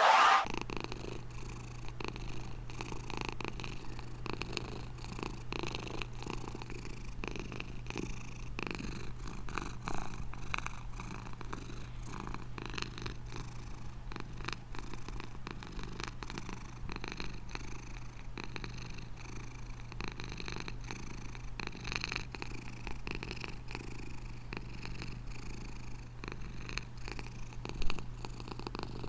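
Domestic cat purring steadily and continuously, a fast even rumble, with one brief louder noise near the end.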